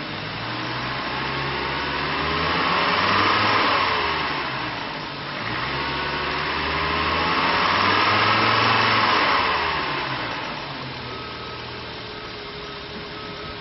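A 2004 Chevrolet Colorado's 3.5-litre inline-five engine running. It is revved up slowly and let back down twice, then settles to a steady idle near the end.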